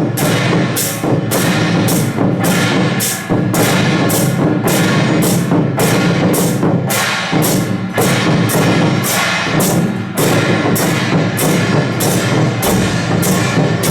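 Procession percussion troupe playing: drums with crashing metal percussion struck in a steady beat, about two strikes a second.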